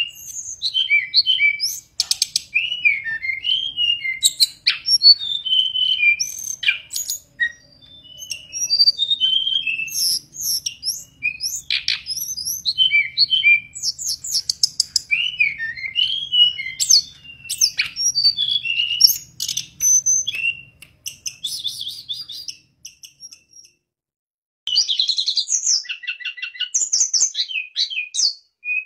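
Hill blue flycatcher (tledekan gunung) singing a long, varied song of quick whistled notes, slurs and buzzy trills, pausing for about two seconds near the end before starting again.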